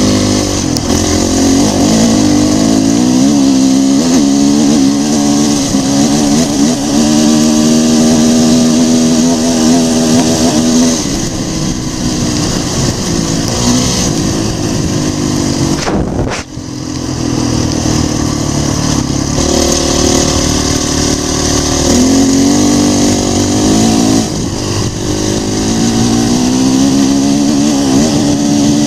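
Dirt bike engine running hard while riding, its pitch climbing in steps through the gears, holding, then dropping off as the throttle closes. There is one abrupt brief break about halfway.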